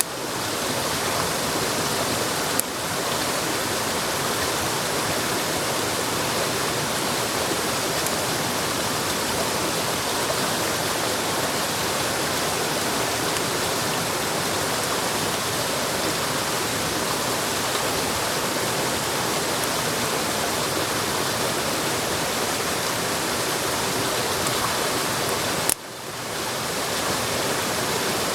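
Steady rush of a stream or running water, an even hiss across low and high pitches. It briefly drops out twice, about three seconds in and near the end.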